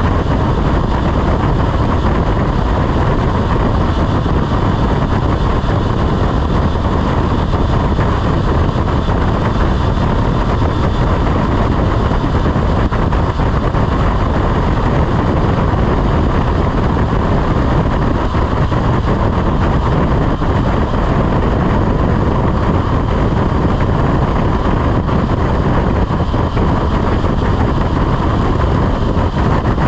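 Motorcycle running steadily on the road, its engine note under a constant rushing noise with no changes in level.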